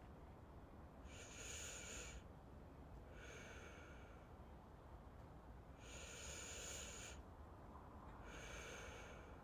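Soft, slow breathing close to the microphone, like a person asleep: two breaths in and out, each lasting about a second, over a faint low hum.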